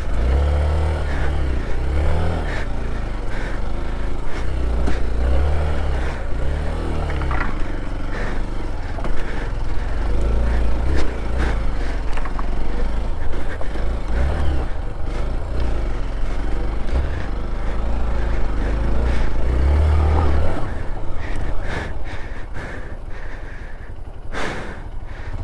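Hero Xpulse 200 4V's single-cylinder engine running while riding a rough trail, the engine note rising and falling with the throttle over a steady low rumble.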